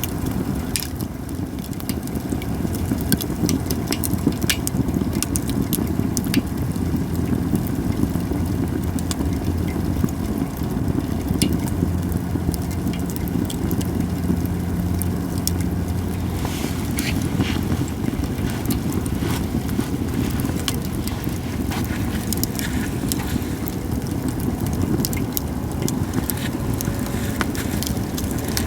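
Japanese cedar wood fire crackling, with scattered sharp pops over a steady low rumble. A low hum rises in the rumble for several seconds in the middle.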